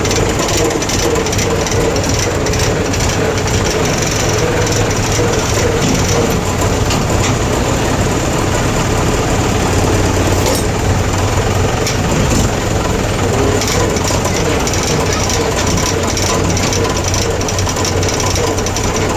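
Tractor engine running steadily at a constant speed, with a rapid clatter.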